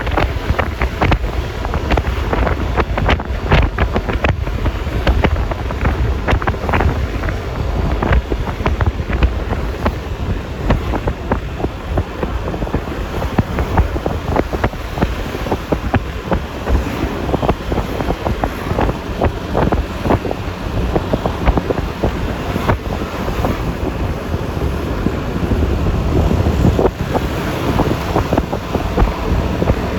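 Wind buffeting the microphone of a moving Yamaha Lexi LX 155 S scooter: a steady rumbling roar of wind and road noise, with many short crackles from gusts hitting the mic.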